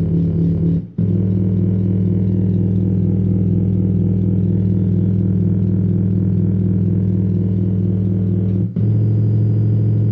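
Portable Bluetooth speaker playing deep sustained synth bass notes. The note changes after a short break about a second in and again near the end.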